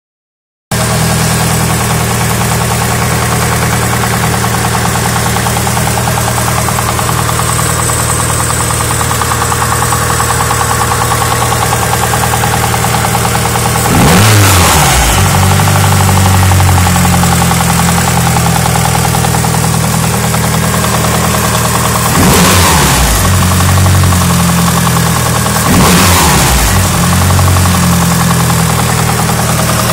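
Mitsubishi Lancer Evolution engine idling with a rattle, revved briefly three times: once about halfway through and twice near the end, the pitch rising and falling back to idle each time.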